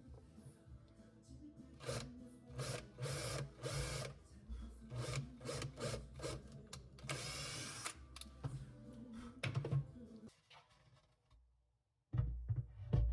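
Hand-tool strokes on wood: a series of short scraping strokes, then one longer stroke, over quiet background music. The sound drops out briefly near the end, and the music comes back louder.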